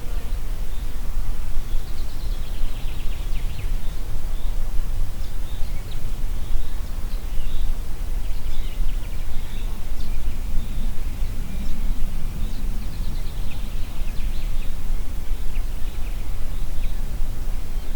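Wind blowing through trees and across the microphone as a constant low rumble, with small songbirds singing short, rapid high trills and chirps in several phrases over it.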